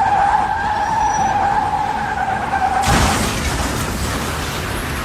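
Car tyres screeching in a steady high squeal for nearly three seconds. It is cut off by a sudden burst of noise, like an impact, about three seconds in, followed by a rough rushing noise.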